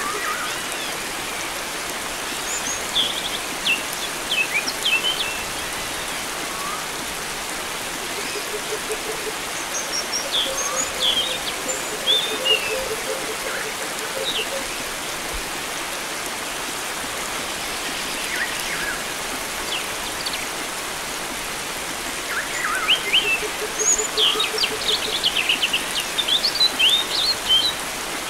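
Steady rush of flowing water with wild birds chirping and twittering in scattered bursts, busiest near the end. A low pulsing trill comes and goes beneath them.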